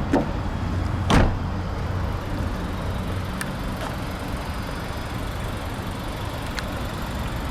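A 2015 Volkswagen Golf's trunk lid shut with one solid thump about a second in, over a steady low hum.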